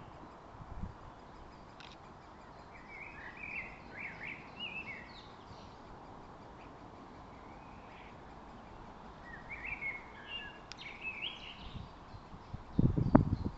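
Great spotted woodpecker nestling begging from the nest hole: two bouts of quick, high, chattering calls, the first a few seconds in and the second near the middle. A brief, loud, low rumble comes near the end.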